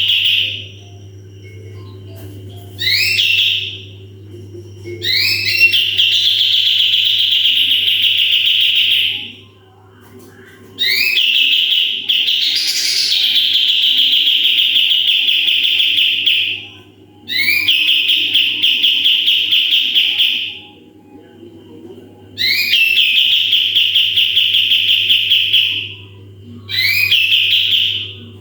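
A songbird repeating loud, high song phrases, each opening with a few quick rising chirps and running into a long, fast trill held for up to about four seconds, with short pauses between phrases. A steady low hum runs underneath.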